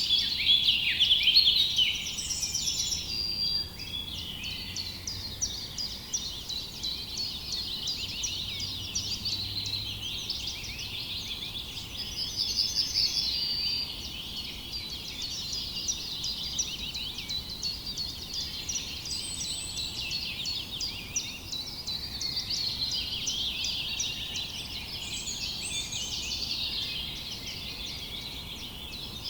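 Many small birds chirping together in a dense, continuous chorus of rapid high chirps, with a few short trills now and then.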